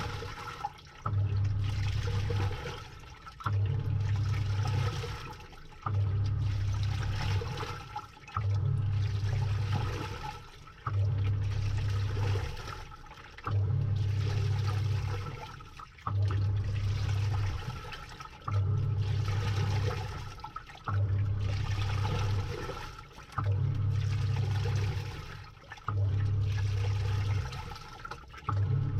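Samsung 6.5 kg top-load washing machine agitating: the wash motor drives the pulsator in bursts of about a second and a half, roughly every two and a half seconds, with the water and clothes sloshing around it.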